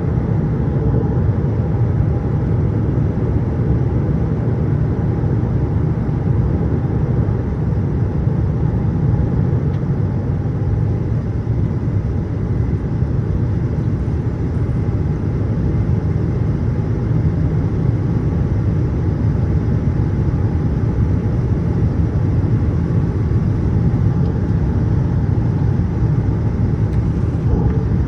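Steady cabin noise of a Boeing 787-8 airliner in flight: an even, low rumble of engines and airflow with a faint steady hum above it.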